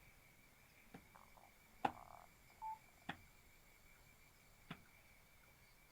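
Near silence broken by four or five faint, sharp, unevenly spaced clicks, over a faint steady high-pitched whine.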